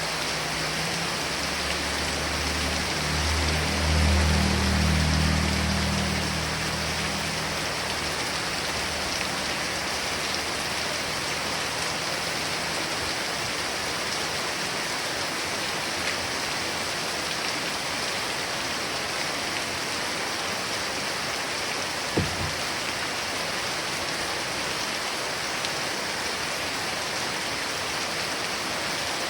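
Heavy rain falling steadily on surfaces. A low rumble swells and fades over the first several seconds, and there is a single sharp knock about three-quarters of the way through.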